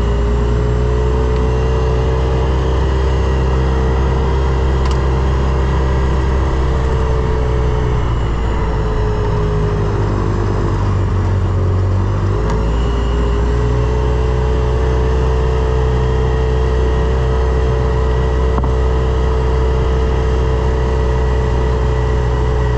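Ranger utility vehicle's engine and drivetrain running steadily on the move. It eases off and drops in pitch about a third of the way in, then picks back up to its earlier steady speed.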